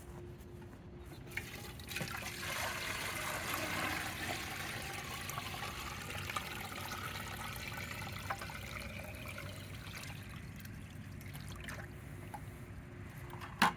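River water being poured into a container, trickling and splashing. It starts about two seconds in, is loudest soon after and slowly tails off, with a small knock or two of handling near the end.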